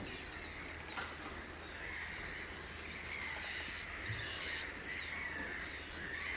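A bird calling, a short high note repeated about once a second, over fainter background bird chatter.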